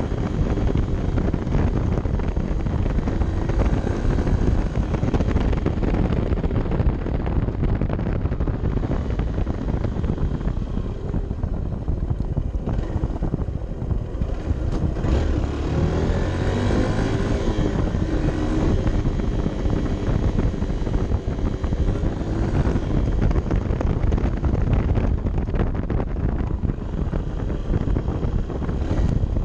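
Honda CB 125 F's single-cylinder four-stroke engine running while the motorcycle is ridden, under heavy wind rush on the microphone. The engine's pitch rises and falls around the middle.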